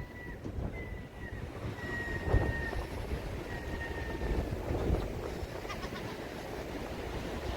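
Storm-force sea wind buffeting the microphone, with a low rumble that swells and eases in gusts and the sea surf under it. A faint thin whistle comes and goes several times in the first half.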